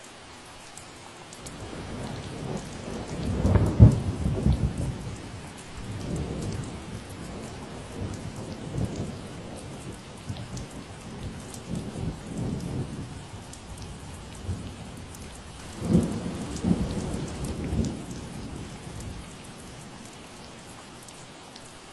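Steady rain falling, with thunder rolling through it: the rumble builds about two seconds in and peaks twice, at about four and about sixteen seconds, before fading out near the end.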